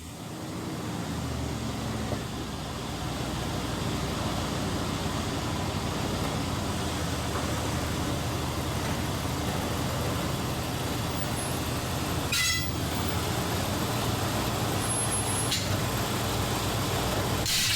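Steady mechanical running of the equipment raising a Jeep Grand Cherokee WJ off the ground, with a low hum throughout and a short click about twelve seconds in.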